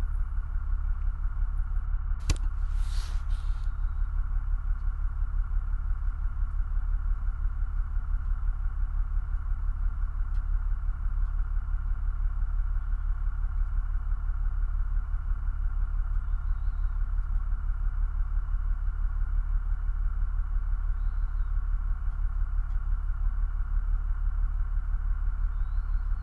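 Pickup truck engine idling steadily with a fast, even low pulse. A brief clatter comes about two seconds in.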